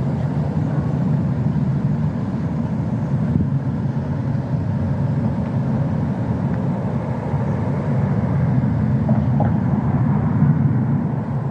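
A steady low rumble with no clear rhythm or pitch changes.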